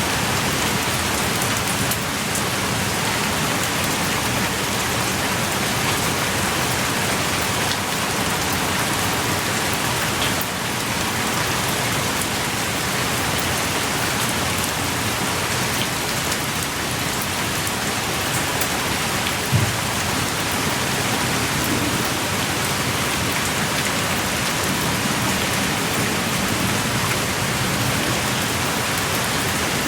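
Pouring rain falling steadily and evenly, with one brief louder tap about two-thirds of the way through.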